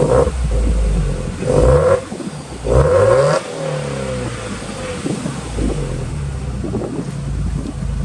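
Subaru WRX STI's turbocharged 2.0-litre flat-four running through an HKS aftermarket muffler, blipped to rev a few times in quick succession in the first half. It then drops back to a steady idle.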